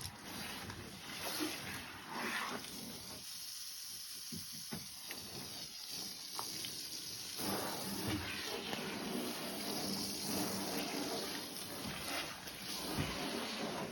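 Water spraying and trickling off a car as it is rinsed, an uneven hiss that thins out for a few seconds partway through.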